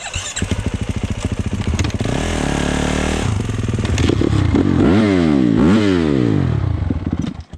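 Four-stroke dirt bike engine catching on a kick start, running with throttle blips that rise and fall, then dying abruptly near the end: it won't hold an idle, which a rider puts down to an idle that probably needs fixing.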